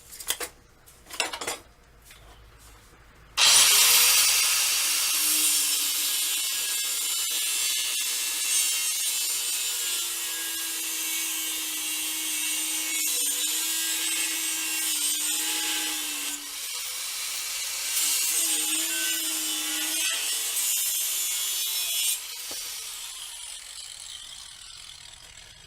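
Angle grinder cutting a piece of circular saw blade steel. It starts suddenly about three seconds in and cuts steadily with a wavering whine, eases off and spins up again partway through, then shuts off and winds down near the end.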